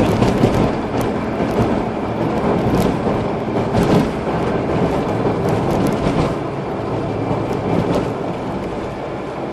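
Car driving on the road heard from inside the cabin: steady engine, tyre and road noise, with a few short knocks and rattles, easing off slightly near the end.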